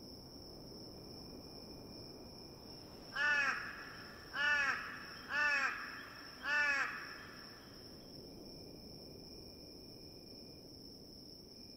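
A bird calls four times, about a second apart, each call rising then falling in pitch, over a steady high-pitched buzz of insects.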